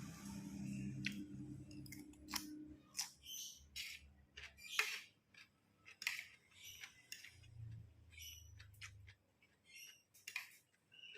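Close-up eating sounds: chewing with irregular wet mouth clicks and smacks as fried rice with stink beans is eaten.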